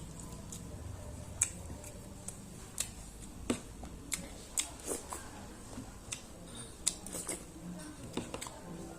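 Eating sounds while chewing chicken biryani: irregular sharp wet clicks and smacks, about one or two a second.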